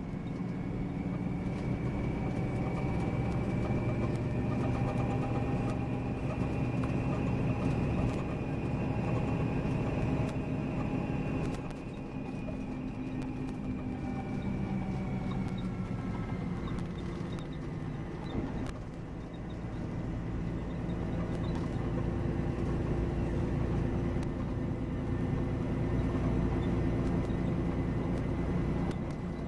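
Volvo B9R coach running on the road, a steady low engine sound with a high whine above it that rises gently and then falls back about two-thirds of the way through. The overall sound dips briefly twice, about twelve and nineteen seconds in.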